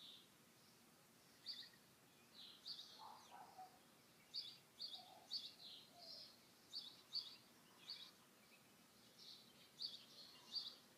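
Faint small-bird chirping: many short, high chirps in irregular clusters, with a few lower notes mixed in, over quiet outdoor background noise.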